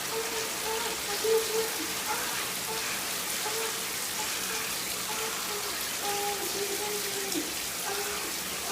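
Steady rain falling: an even hiss, with faint short pitched notes underneath.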